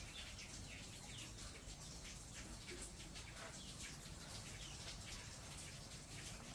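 Birds chirping: many short, quick falling chirps repeating over a faint steady background hum.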